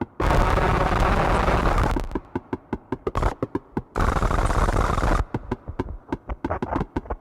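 Heavily distorted electronic noise from a modular synthesizer patch run through fuzz and filter pedals. Dense blocks of harsh noise about two seconds long alternate with stretches of rapid stuttering clicks and crackles.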